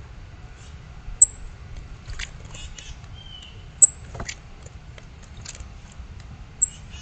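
Wild birds calling: three short, very high chips, about a second in, near four seconds and near the end, with a brief falling whistle between them and scattered faint clicks over a low steady rumble.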